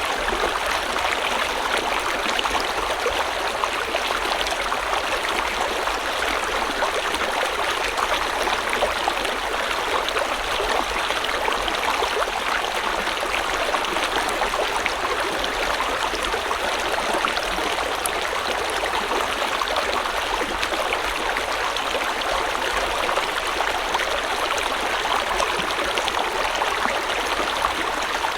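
A stream flowing steadily over rocks: continuous rushing and splashing water with fine trickling detail.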